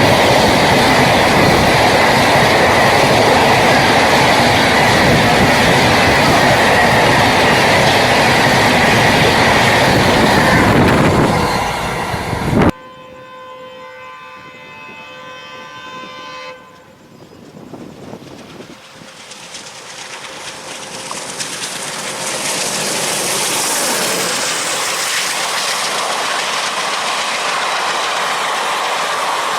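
Express trains passing at speed. A loud, dense running noise of a passing train cuts off abruptly about 13 s in. A locomotive horn then sounds steadily for about four seconds, more quietly. Another train approaches after that, its noise building to a loud rush.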